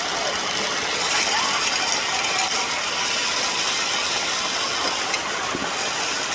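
Zip line trolley pulleys running along the steel cable: a steady metallic hiss and rattle with faint clicks.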